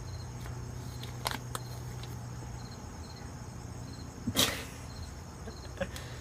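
Bible pages being leafed through: a few light clicks and a short rustle about four seconds in, over faint crickets chirping.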